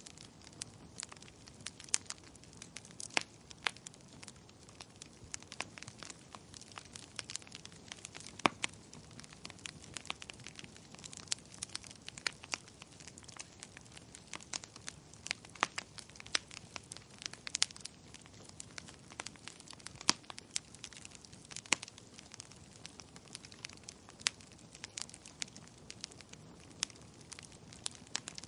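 Wood fire burning in a fireplace: irregular sharp crackles and pops over a low steady hiss of flames.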